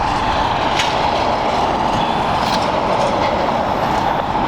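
Jet airliner engines running with a steady, loud rumble, a couple of faint clicks over it.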